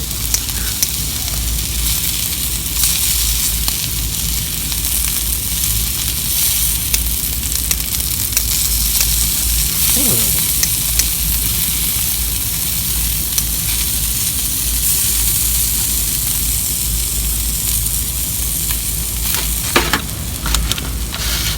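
Sukiyaki sizzling in a pot over a campfire, a steady, unbroken hiss.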